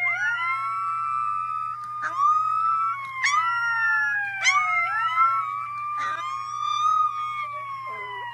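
A dog howling: several long howls that rise quickly and then hold, with short sharp high yelps between them. Under them runs a siren wail that falls slowly in pitch and starts again.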